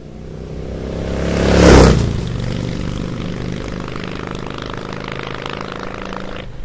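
Motorcycle engine running, growing louder to a peak a little under two seconds in, then running steadily.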